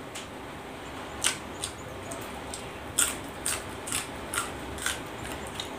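Crisp crunching of a raw yardlong bean being bitten and chewed: a couple of sharp crunches, then a run of about two a second.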